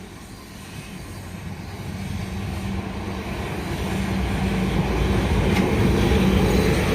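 An electric passenger train approaching, its rumble and steady hum growing louder.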